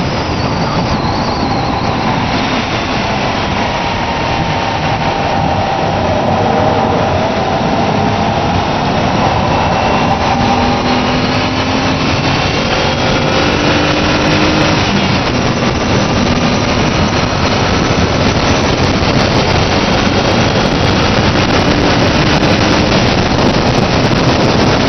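Mazda Xedos 6's 2.0-litre V6 engine pulling at high revs, its pitch rising gradually, with a steady rush of wind and road noise over it inside the cabin.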